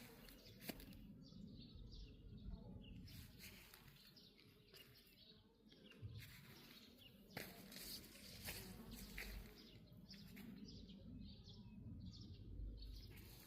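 Faint outdoor background with scattered short chirps, most likely small birds, and a few sharp clicks.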